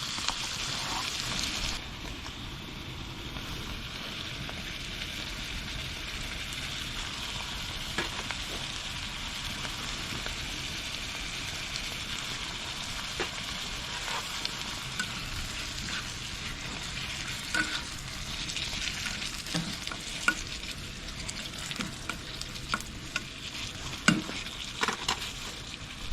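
Food sizzling as it fries in a pan, with scattered clicks and scrapes of a utensil stirring it. The sizzle drops a little in level about two seconds in.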